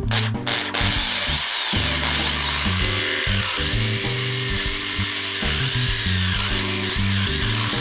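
Background music with a steady beat of low notes, and a power tool, likely a rotary drill or polishing tool, whining over it from just under a second in, its pitch wavering up and down as it works.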